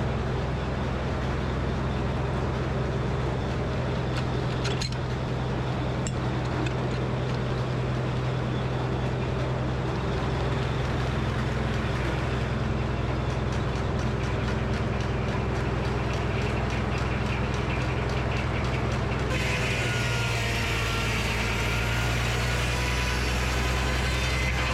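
Frick circular sawmill running steadily under engine power, a low even drone with a few faint clicks. About 19 seconds in, a higher whine and hiss joins in.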